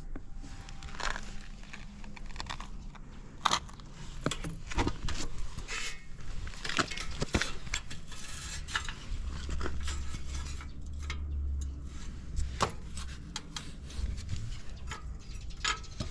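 Irregular light metallic clicks, taps and rattles, like keys jangling and small metal parts being handled, with a brief low rumble near the middle.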